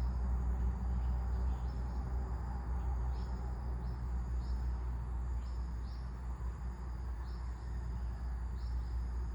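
Wind rumbling on the microphone over a steady outdoor hiss, with short high chirps repeating about once a second, often in pairs.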